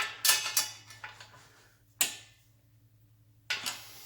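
Metal tools and parts clinking and clattering as exhaust fasteners are worked on: a quick run of sharp clinks at the start, a single sharp clink about 2 seconds in, and another near the end.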